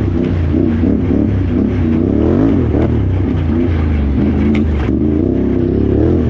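Can-Am Renegade XXC 1000R ATV's V-twin engine revving up and down again and again as the throttle is worked over rough trail, with a few sharp knocks around the middle.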